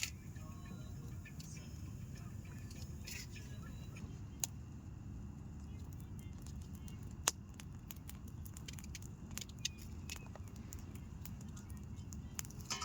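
Campfire burning under a cooking pot: a steady low rumble with a few sharp, scattered cracks.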